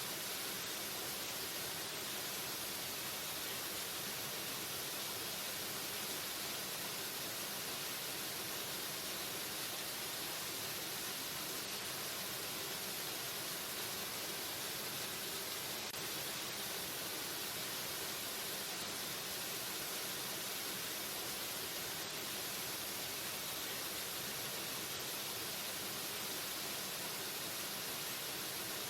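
Waterfall: falling water making a steady, even hiss with no breaks or changes.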